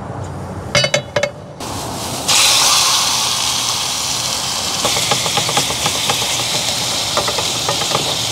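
Pieces of chicken frying in hot oil in a pan on a butane camp stove: a few light clicks, then a loud sizzle starts about two seconds in and holds steady, with crackling pops from about five seconds on.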